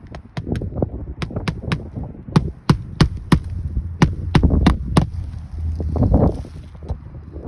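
Hammer driving roofing nails into asphalt shingles: a dozen or so sharp strikes in quick runs of two to four, over a low rumble of wind on the microphone.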